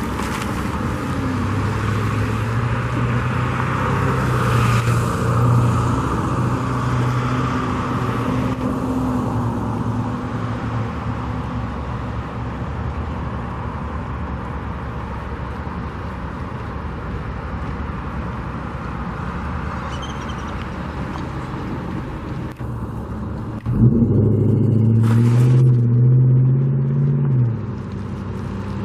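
Running motor-vehicle engines with a steady hum of traffic. About 24 seconds in a louder engine cuts in abruptly, shifts slightly in pitch, and stops about four seconds later.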